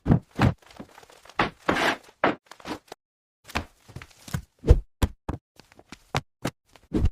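An irregular series of short knocks and thumps, roughly a dozen, separated by brief gaps of silence.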